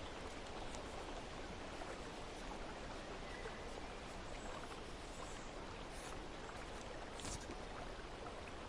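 Steady hiss of running water, with a few faint, brief high ticks about six and seven seconds in.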